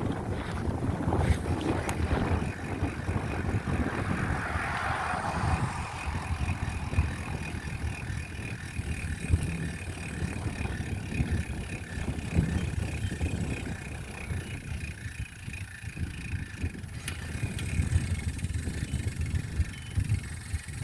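Wind buffeting the microphone on a moving bicycle: a continuous, uneven low rumble.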